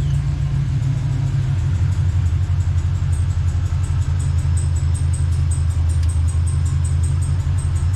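Chevy Vortec 350 V8 in a Jeep Scrambler idling steadily just after starting, running on freshly fitted spider injectors and a new fuel pressure regulator.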